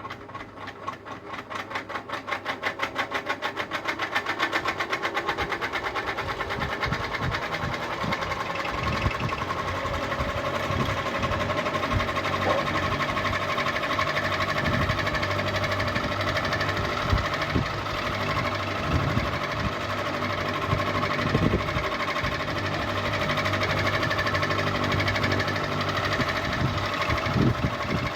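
Ceiling fan speeding up: a rhythmic ticking grows louder and quicker over the first few seconds, then merges into a steady running hum with an irregular low knocking rattle.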